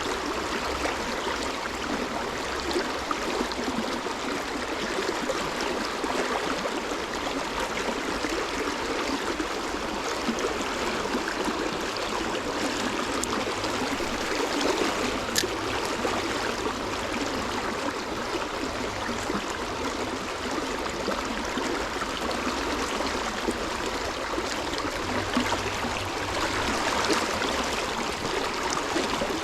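Stream water flowing steadily, with a single short click about halfway through.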